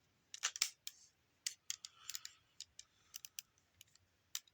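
A dozen or so sharp, irregular plastic clicks from an electronic toy figure's buttons and parts being worked, with a faint short noise about two seconds in. The figure's sound feature is glitching, which the owner puts down to worn-out batteries.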